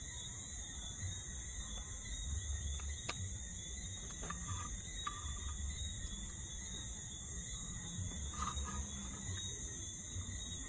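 Crickets chirping steadily in the background, with low rumble from wind on the microphone and a couple of sharp clicks.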